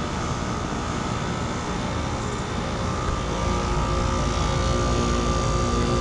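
Heat pump outdoor units running: a steady fan whoosh with compressor hum. About three seconds in, the sound grows louder, with a deeper rumble and several steady humming tones coming in.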